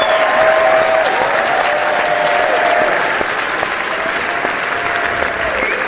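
A crowd applauding steadily, a dense wash of many hands clapping, with a held tone over it that fades somewhat about halfway through.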